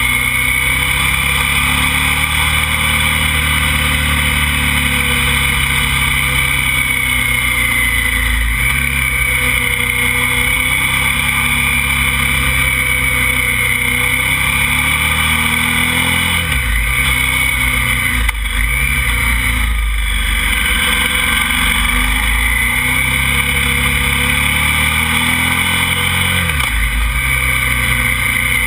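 KTM motorcycle engine running under load on the ride, with wind noise over it; the engine note dips briefly about three times, around the middle and near the end, as the throttle is eased.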